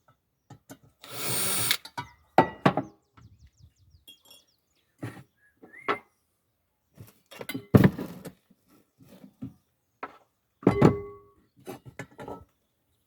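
An electric drill runs briefly about a second in, then comes a string of scattered knocks and clanks, some ringing briefly like metal, as a pan and its handle fittings are handled.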